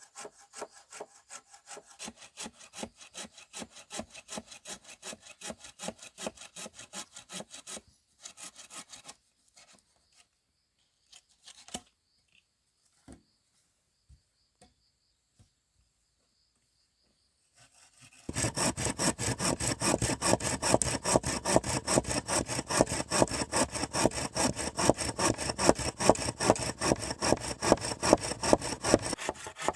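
Hand saw cutting wood in quick, even back-and-forth strokes. The strokes stop for about ten seconds, with only a few scattered knocks, then start again much louder about two thirds of the way in.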